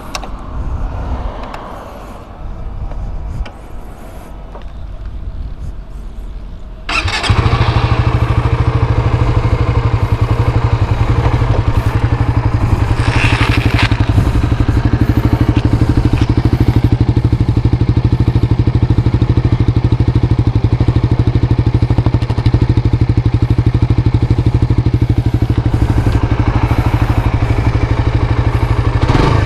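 Suzuki GSX-R150's single-cylinder engine starting up about seven seconds in, then idling steadily through its stock, unmodified exhaust. Before it starts there are only quieter, irregular sounds.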